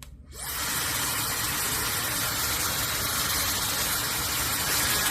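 Laifen SE high-speed hair dryer coming on and quickly settling into a steady, even rush of airflow and motor hiss.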